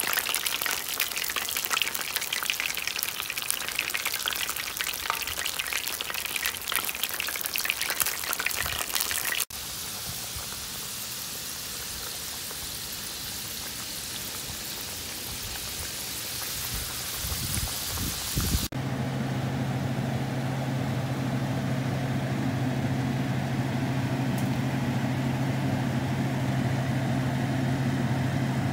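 Beer-battered walleye fillets frying in hot oil in a cast iron pan: a dense crackling sizzle that turns to a smoother, quieter hiss about a third of the way in. In the last third the sizzle is louder again over a steady low hum.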